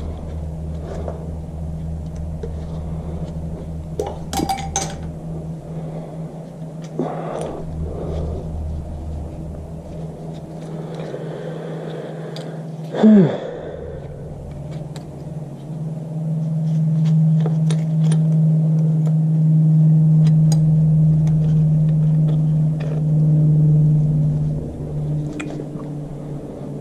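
Scattered metal clicks and clunks from a Toyota 2JZ's connecting rods being checked for bearing play, a knocking rod, over a steady low hum that grows louder in the second half. A loud short squeal falling in pitch about halfway through.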